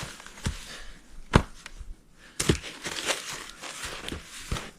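Footsteps crunching in frozen snow, uneven, with a sharp knock about a second and a half in.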